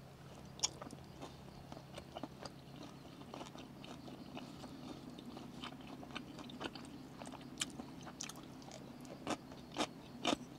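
A person chewing and eating, with scattered small clicks and taps, and a few louder clicks near the end.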